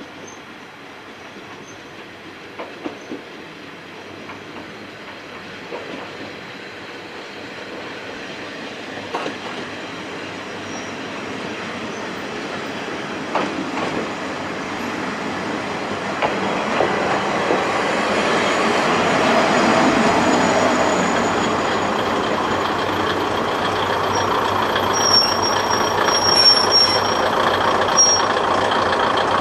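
Kominato Railway diesel railcar approaching and pulling into the station, its rumble growing steadily louder, with a few wheel clicks over rail joints early on. A thin high squeal from the wheels and brakes comes near the end as it slows to a stop.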